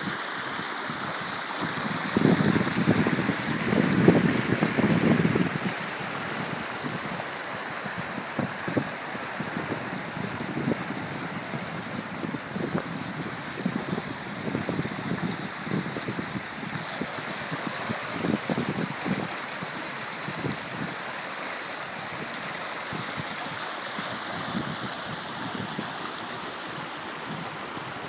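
Steady rushing of heavy rain and running rainwater, with uneven low rumbles that are loudest a couple of seconds in.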